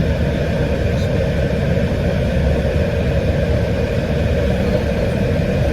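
Steady hum of a car engine idling, heard from inside the parked car's cabin.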